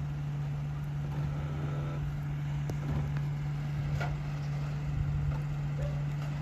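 Car engine running steadily with an unchanging low hum, with a few faint clicks over it.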